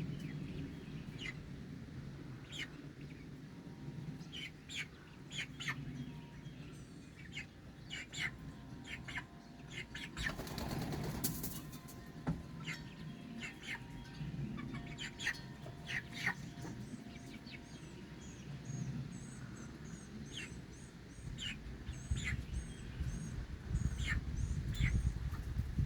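Young buff Brahma rooster flapping its wings as it hops down stairs, with short bird chirps scattered throughout. A longer flurry of wing beats comes about ten seconds in.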